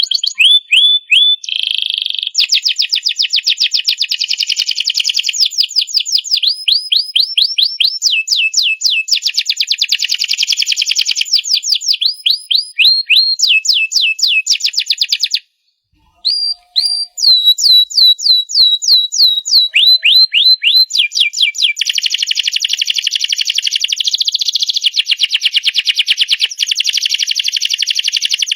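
Domestic canary singing a long, unbroken song of fast trills and rolled phrases, each a rapid run of repeated high notes. The song breaks off briefly about halfway, then carries on.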